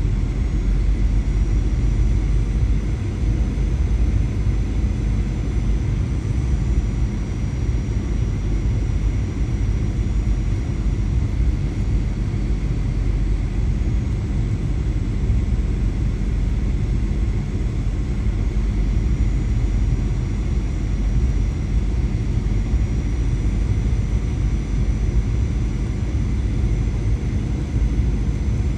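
Steady low rumble inside an Airbus A320 cabin: the engines and airflow heard from a passenger seat, with a few faint steady whines above it.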